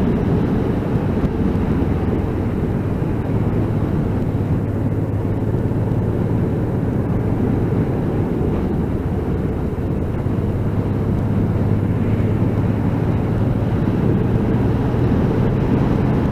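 Motorcycle engine running at a steady cruise with wind rushing past, heard muffled through a microphone fitted inside the rider's helmet.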